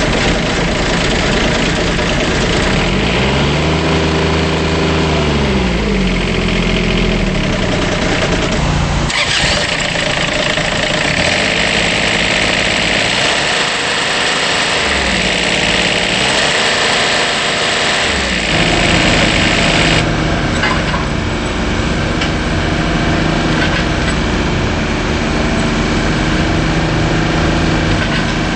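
Bobcat 320 mini excavator's Kubota diesel engine running, its pitch dipping and recovering several times as under load from the hydraulics. A steady hiss sits over it for about ten seconds in the middle.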